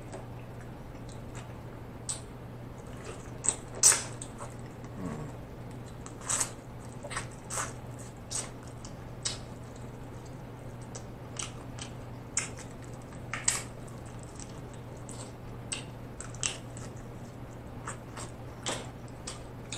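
Close-miked mouth sounds of eating king crab meat: wet smacks and chewing clicks, scattered irregularly, the loudest about 4 seconds in and again about 13 seconds in, over a low steady hum.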